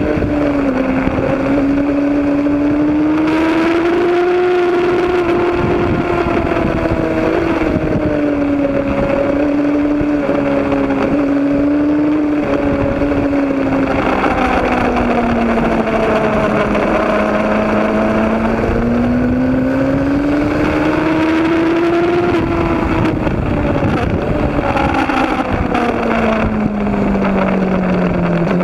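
A racing motorcycle's engine running at high revs without a break, its pitch rising and falling slowly as the throttle changes, with a falling pitch near the end, over a steady rush of wind and road noise.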